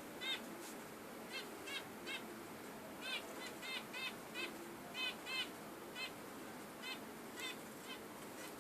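Budgerigars chirping: a string of short, high chirps, irregularly spaced and coming several a second around the middle, over a faint steady hiss.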